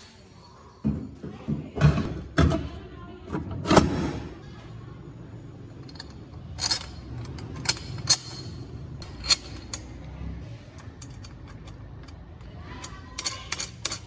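Irregular knocks and sharp clicks, like objects or tools being handled: several heavy thuds in the first few seconds, scattered clicks in the middle, and a quick run of clicks near the end.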